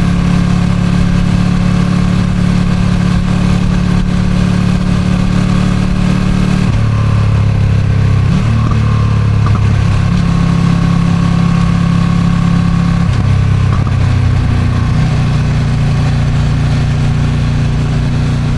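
Ducati Streetfighter V2's 955 cc V-twin with stock exhaust, heard from onboard while riding. The engine note drops and rises a few times as the rider changes speed, over a haze of wind noise on the microphone.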